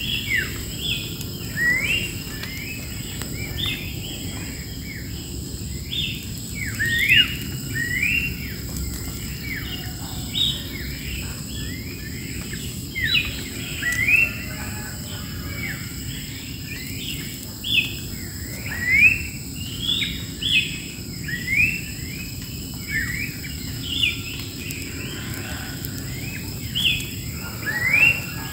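Wild birds singing in a bamboo clump: a continuous chorus of short chirps and quick rising and falling whistled notes. Underneath runs a steady, high insect buzz.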